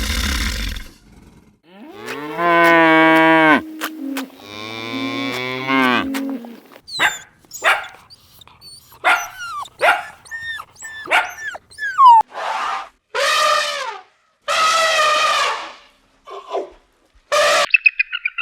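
A cow mooing twice in long, low calls, followed by a run of shorter, higher calls from other farm animals: quick chirps, then several wavering calls about a second long each.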